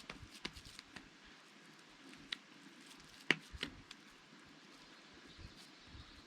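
A few separate sharp clicks and light knocks over a quiet background, with the loudest snap about three seconds in.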